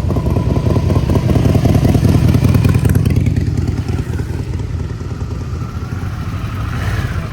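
Harley-Davidson V-twin motorcycle engine running loud with a rapid throbbing beat, loudest in the first three seconds and then easing off as the revs or distance change.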